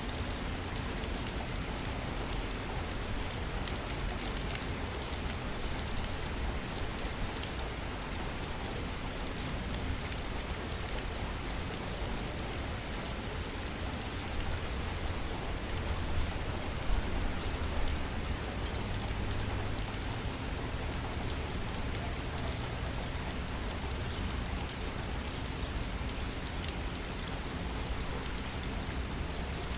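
Steady rain falling in a city, an even hiss with fine drop patter and a low rumble beneath, a little louder for a couple of seconds past the middle.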